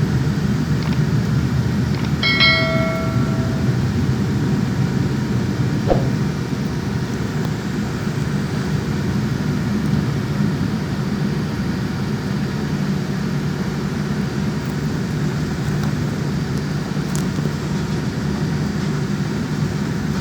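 Steady low rumble of an airliner cabin with the jet engines running. About two seconds in, a single cabin chime rings for about a second and a half.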